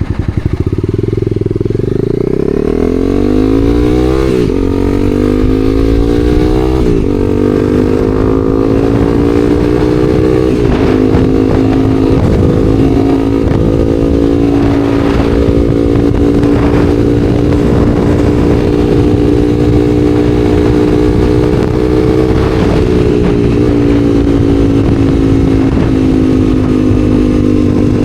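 Honda CBR300R's single-cylinder engine pulling away and accelerating. Its pitch rises and drops back at three upshifts in the first eleven seconds or so, then holds a steady cruising note, over a low rush of wind.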